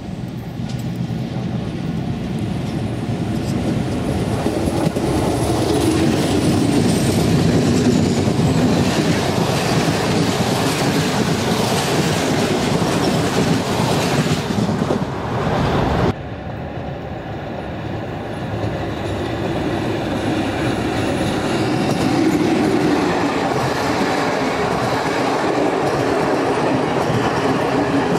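Intercity passenger train passing close by, the wheels clattering over rail joints as the coaches roll past, building in loudness as it comes up. The sound cuts off suddenly about 16 seconds in, and a second train's coaches roll past, the clatter building again.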